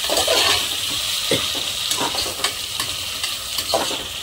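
Potato pieces, still wet from soaking, sizzling as they fry in oil with onions and green peas in a pressure cooker. A spoon scrapes and knocks against the pot several times as they are stirred.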